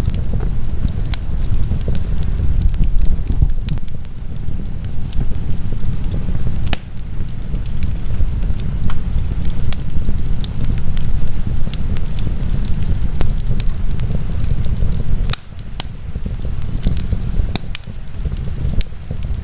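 Fire burning in a fireplace, crackling and popping irregularly over a steady low rumble.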